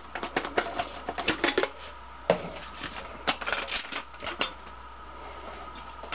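Lightweight metal cook-kit pieces clinking and clattering as they are handled: a run of short sharp clinks and knocks over the first four seconds or so, then only a few faint sounds.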